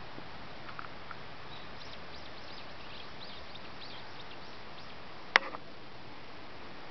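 Outdoor background with faint, short high chirps of small birds, and a single sharp click a little over five seconds in.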